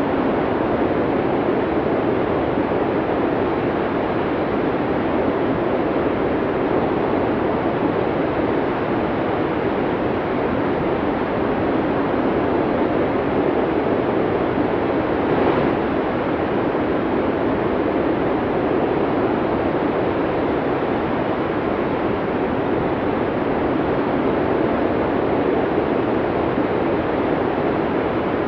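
Strong wind blowing steadily in a snowstorm: an unbroken rushing noise, swelling slightly about halfway through.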